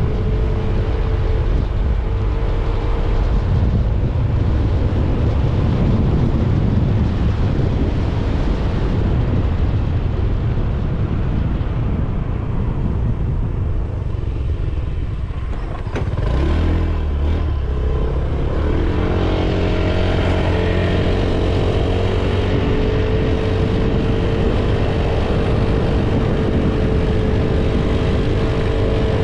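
Motorcycle engine running under way, with wind rushing over the microphone. It eases off a little past the middle, then picks up again suddenly and settles into a steady note.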